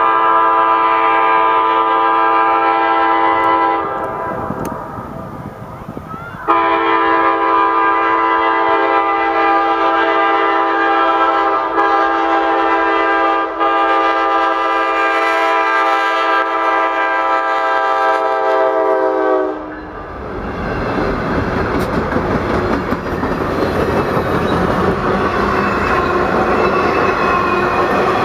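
Diesel locomotive's multi-chime air horn blowing a blast of about four seconds, then after a short pause a long one of about thirteen seconds that dips in pitch as it passes and cuts off. Then the locomotives and passenger cars of a Norfolk Southern office car special roll by close, a loud steady rush of wheels on rail.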